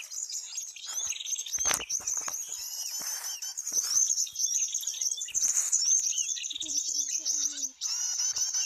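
Prinias chirping and twittering rapidly and continuously in high-pitched notes, with a sharp knock of handling about two seconds in.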